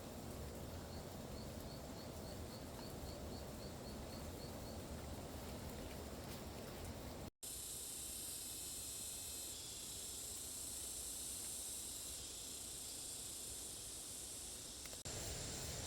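Outdoor ambience with steady noise. A short run of about a dozen faint high chirps starts about a second in. After a sudden cut about halfway through, a steady high hiss takes over.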